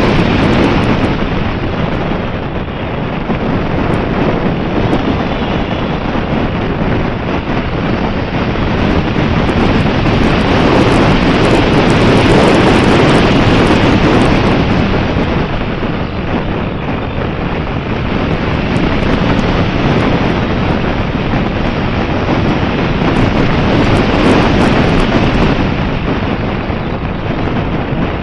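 Strong wind buffeting the microphone: a loud, continuous rushing noise that swells and eases every few seconds.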